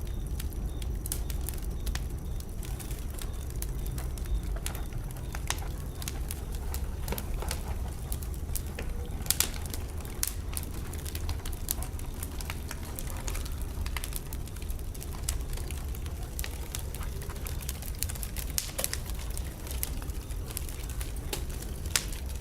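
Wood fire burning in a fireplace: irregular crackles and sharp pops over a steady low rumble, with a couple of louder pops about nine seconds in and near the end.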